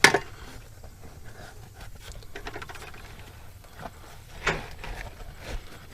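Small handling noises from working on a rubber inner tube and hand tools: a sharp click at the start, then faint scattered clicks and rubbing, with two brief louder knocks near the end.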